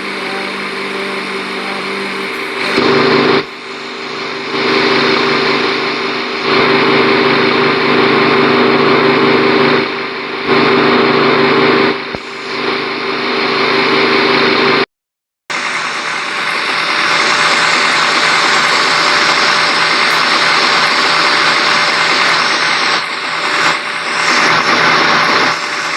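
Electric fan motor running with a steady whirring hiss and a low hum. It rises and falls in level a few times, breaks off completely for about half a second around the middle, then carries on.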